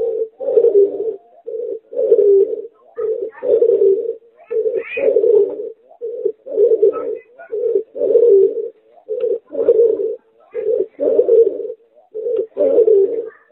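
Pigeon × spotted dove hybrid cooing over and over in a steady rhythm, each phrase a short low note followed by a longer one, about every second and a half.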